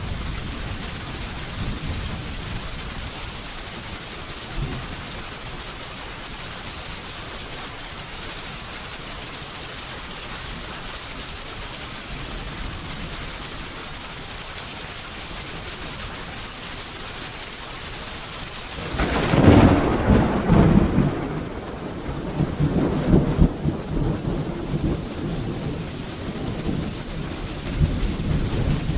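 Steady rain falling, a soft even hiss. About nineteen seconds in, a loud thunderclap breaks out and rolls on in rumbles.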